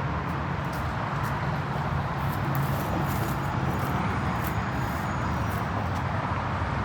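Steady outdoor background noise: a low hum under an even rushing sound, with a few faint clicks in the middle.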